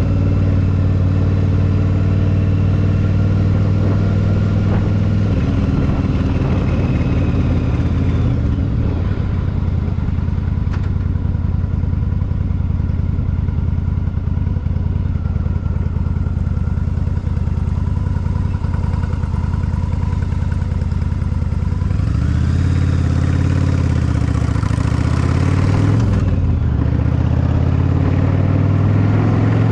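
Yamaha V-Star 1100's V-twin engine running steadily while riding. About three quarters of the way through, the engine note rises and falls a few times as the throttle is worked.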